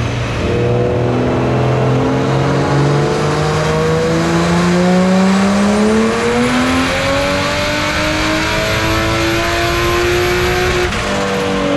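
Single-turbo BMW 135i's N54 straight-six under full throttle on a chassis dyno, revs climbing steadily for about eleven seconds in one long pull, then the throttle comes off and the revs fall near the end. The pull is on low boost, about 20 psi, held down by a boost control problem.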